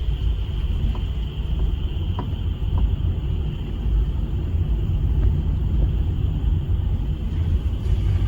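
A steady low rumble with a faint, even, high-pitched chorus of frogs running behind it, and a few faint ticks about two seconds in.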